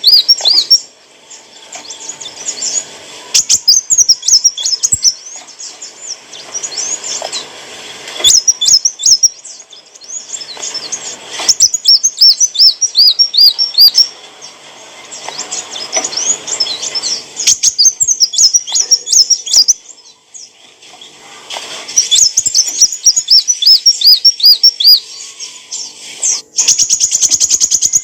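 Kolibri wulung sunbird singing: high, rapid bursts of repeated chirping notes, phrase after phrase with short pauses between. Near the end comes a fast trill.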